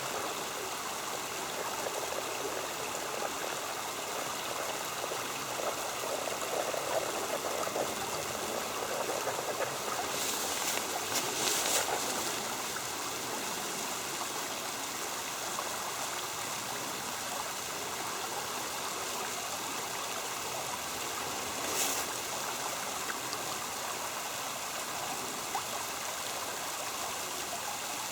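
Creek water flowing steadily over rocks, a constant rush and trickle. A few brief rustles cut in about ten to twelve seconds in and once more about twenty-two seconds in.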